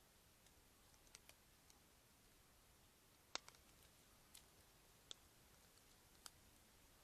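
Near silence with a handful of faint, sharp clicks at irregular intervals, the loudest about three and a half seconds in.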